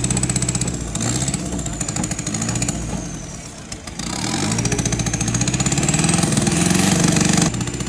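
Off-road 4x4 pickup engine revving up and down under load, with a high whine that follows the revs. It eases off for a moment, then climbs steadily before dropping back abruptly near the end.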